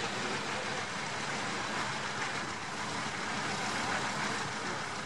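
Antique tractor engine running steadily under load as it pulls the weighted sled down the track.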